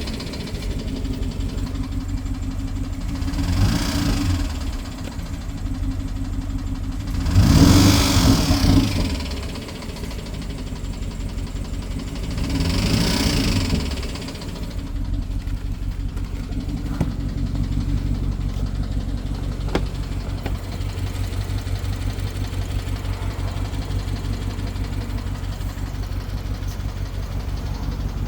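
BMW N63 4.4-litre twin-turbo V8 idling with a fast, even ticking, revved up briefly three times, the middle rev the highest. The ticking came on after new fuel injectors and high-pressure fuel pump were fitted, and the owner asks whether it could be the timing chain; a misfire is also reported.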